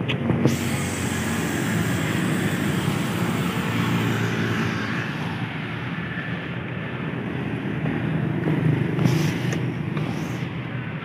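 Road traffic: the steady rumble of passing vehicles' engines and tyres, with a sharp click right at the start.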